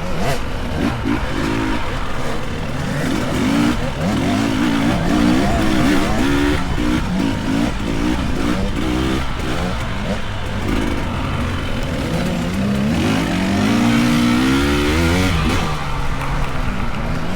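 Dirt bike engines revving as the riders race past, the pitch rising and falling again and again with the throttle, with one long rising rev about three-quarters of the way through.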